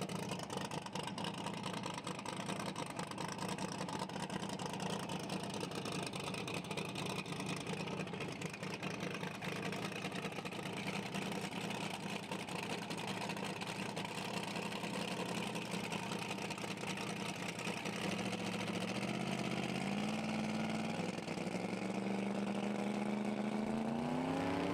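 Drag race car engines idling at the starting line. Near the end the revs climb in steps, then rise steeply.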